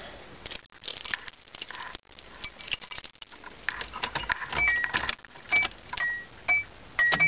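Keys jangling and clicking at the ignition of an old Subaru with no engine cranking, the sign of a failed start. From about four and a half seconds in, a two-tone electronic chime beeps over and over, its two notes alternating.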